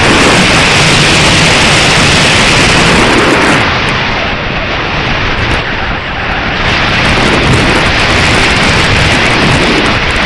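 Strong wind buffeting the microphone: a loud, rough rushing that eases for a couple of seconds near the middle, then picks up again.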